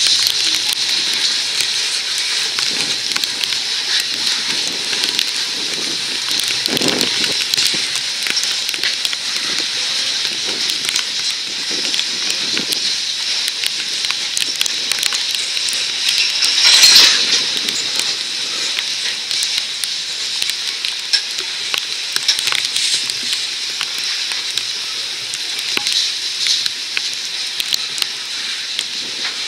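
Freight train's covered hopper cars rolling past, a steady hiss of steel wheels on the rails with a faint thin whine, overlaid with constant crackling ticks of rain. A brief louder swell of the hiss comes about seventeen seconds in.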